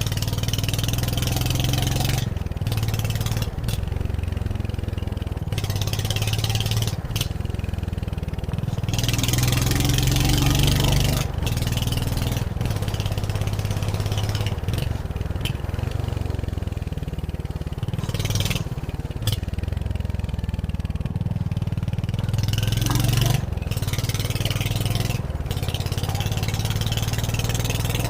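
Royal Enfield Hunter 350's single-cylinder engine running as the motorcycle is ridden, its note rising and easing with the throttle. A rushing hiss comes and goes over it.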